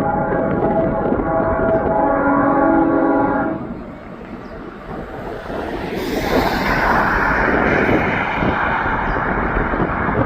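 A diesel freight locomotive's air horn sounds one long chord of several tones and cuts off about three and a half seconds in. The head of a Union Pacific intermodal train, led by GE C45ACCTE UP 7850, then comes up loud from about halfway through with engine and wheel-on-rail noise as the locomotives pass.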